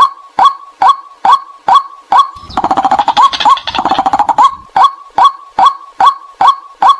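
White-breasted waterhen calling: a steady series of short, loud 'kwak' notes a little over two a second. About two and a half seconds in, the series gives way to about two seconds of rapid, harsh chattering, then the steady notes resume.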